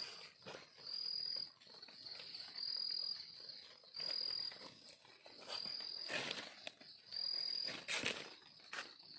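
An insect calling in even pulses, a high buzzing note repeated roughly once a second, with a few rustles and crunches of movement in the undergrowth, the loudest about six and eight seconds in.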